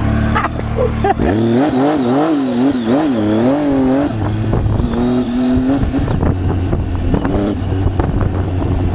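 Triumph Tiger 800's three-cylinder engine revving unevenly, its pitch rising and falling a few times a second as the throttle is worked. About halfway through it settles to a steadier, lower run.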